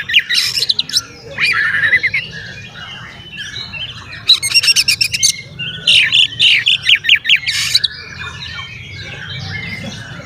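Oriental magpie-robin (kacer) singing: three loud bursts of rapid, harsh repeated notes, with softer warbling and twittering between them.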